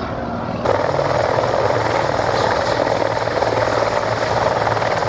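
Mi-35 Hind attack helicopter flying by: a steady beat of its rotor over the sound of its turbines. About half a second in, the helicopter abruptly replaces the engine drone of a propeller aerobatic aircraft.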